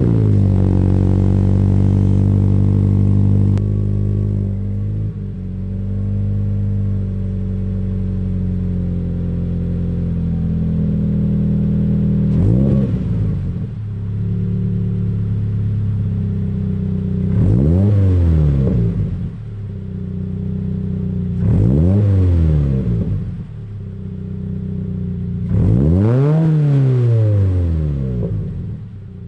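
Subaru BRZ's flat-four boxer engine running through a GReddy Revolution RS 3-inch single-exit stainless cat-back exhaust. It idles, settling a little lower about four seconds in, then is revved four times, each blip rising and falling, the last held a bit longer, with a fifth starting right at the end.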